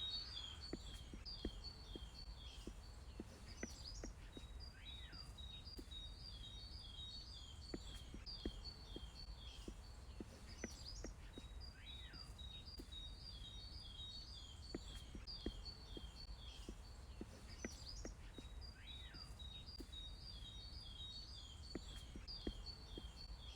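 A songbird singing: long strings of short, repeated high notes in phrases with brief pauses, over a faint low background rumble.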